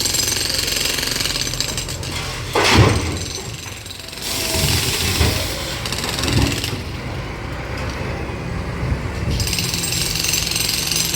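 Demolition work: heavy machinery runs with a steady low hum and a rapid hammering rattle. A loud crash comes about three seconds in, followed by a few heavier thuds, and the rattle drops away for a few seconds past the middle before it returns.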